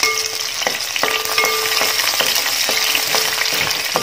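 Dried red chillies, shallots and freshly added curry leaves sizzling and crackling in hot coconut oil in an aluminium pan, while a wooden spatula stirs and scrapes against the pan with small knocks.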